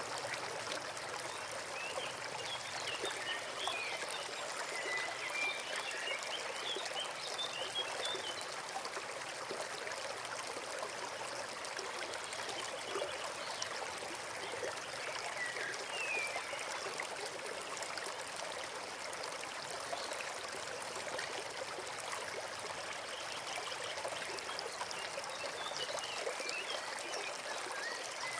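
Forest stream trickling steadily, with brief bird chirps now and then: several in the first few seconds, one around the middle, and a few near the end.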